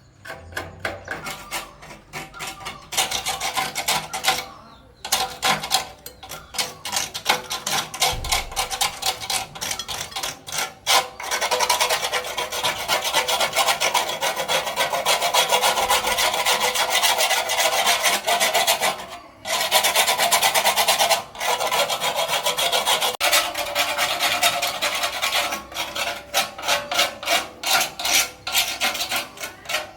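Quick back-and-forth rasping strokes of a hand abrasive tool worked over a part, with short breaks about 5 seconds in and again about 19 seconds in.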